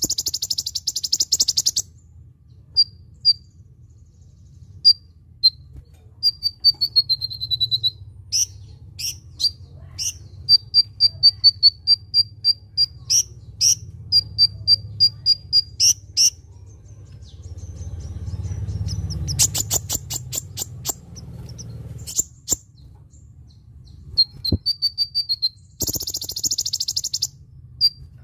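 Kolibri ninja sunbird singing: series of short, high-pitched chips in quick succession, a run of notes falling in pitch about seven seconds in, and dense buzzy trills at the start and again near the end.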